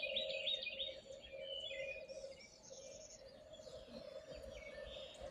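Wild birds singing at dawn: a burst of quick chirping song in the first couple of seconds, then fainter, scattered calls, over a steady low hum.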